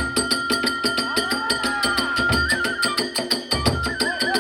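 Kagura hayashi music: a transverse bamboo flute holds a long high note with brief trills over fast, even percussion strikes and drumbeats.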